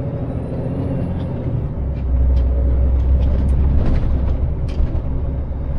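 Scania S500 lorry's engine and drivetrain rumbling while driving slowly, heard from inside the cab; the rumble grows louder about two seconds in.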